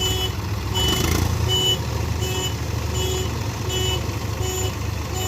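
Reversing alarm on a JCB backhoe loader beeping about every three-quarters of a second, over a steady diesel engine rumble.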